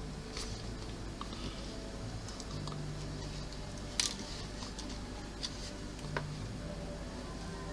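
Small plastic model kit parts being handled and tried into place: scattered light clicks and taps, the sharpest about four seconds in, over a faint steady hum.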